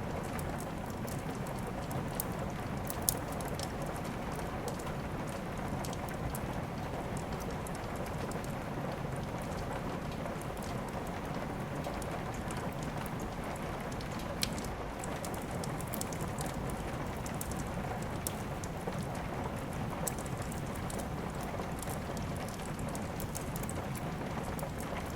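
Steady rain with a wood fire crackling: a constant hiss of rain under scattered sharp pops, the loudest about three seconds in and another about halfway through.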